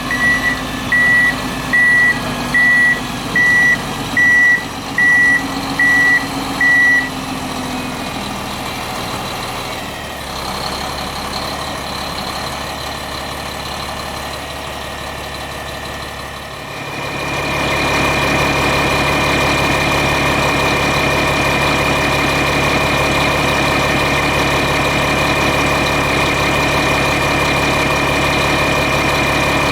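A Prinoth Leitwolf W snow groomer's MAN diesel engine running while its reversing alarm beeps about once a second for the first seven seconds. About 17 seconds in, the engine gets markedly louder and holds steady with a high whine as the machine stands still.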